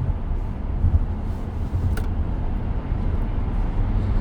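Road and tyre noise inside the cabin of a 2023 Tesla Model X while driving, a steady low rumble with no engine note, and one faint click about two seconds in.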